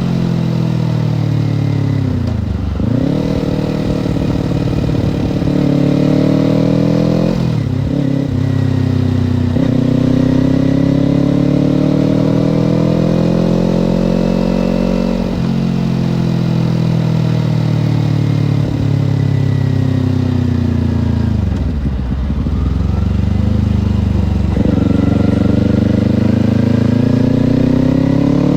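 Kawasaki Ninja parallel-twin motorcycle engine under way, revving up through the gears. Its pitch climbs and then drops sharply at each shift. Twice, about three seconds in and again past twenty seconds, the revs fall away low as the bike slows, then climb again as it pulls away.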